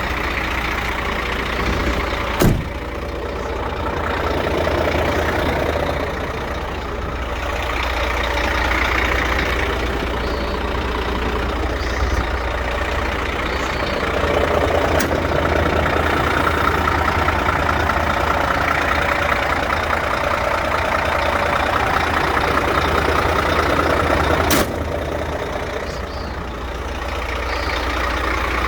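Scania P380 dump truck's diesel engine running steadily, rising and falling a little, with a sharp knock about two and a half seconds in and another near the end.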